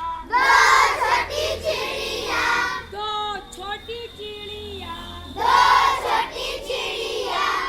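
Children singing a song with music, the singing swelling loudest twice.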